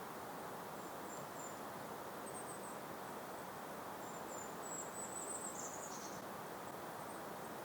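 A soft, steady breeze, with faint, very high, thin bird calls over it and a longer high trill about four to six seconds in.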